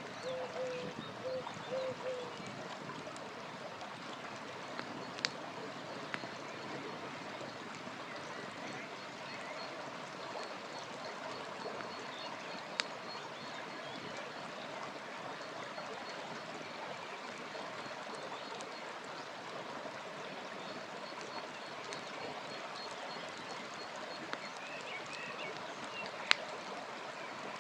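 River water flowing steadily, with a few sharp pops from a crackling campfire. A faint high ticking runs through much of it, and birds chirp briefly near the end.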